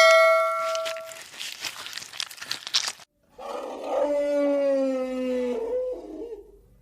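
An animal giving one long, drawn-out call that falls slightly in pitch, starting about three and a half seconds in. Before it, a ringing tone fades out about a second in.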